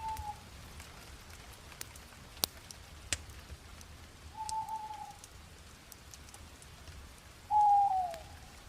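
Fire crackling with a few sharp pops over a soft hiss, while a bird gives three short whistled calls at the same pitch. The last call, near the end, is the loudest and slides down in pitch.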